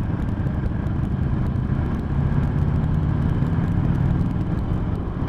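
Motor vehicle engine running steadily at speed over road noise, a low hum that rises a little in pitch and level in the middle before easing back.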